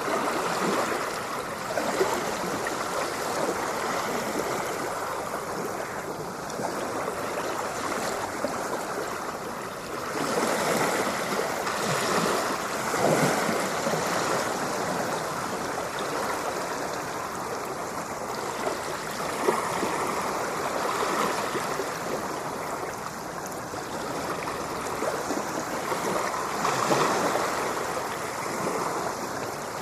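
Ocean surf: a continuous rush of washing water that swells and eases every several seconds as waves come in.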